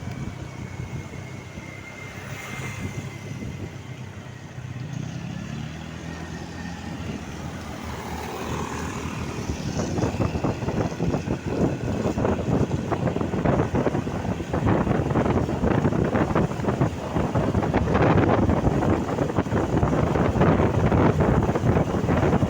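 Road vehicle engine running with its pitch shifting, then wind buffeting the microphone, growing louder from about halfway and covering the engine.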